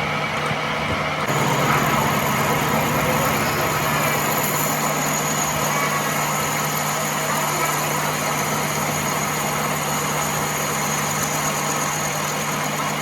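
Workshop machinery running steadily: a constant low hum under broad mechanical noise, with a thin high whine joining about a second in.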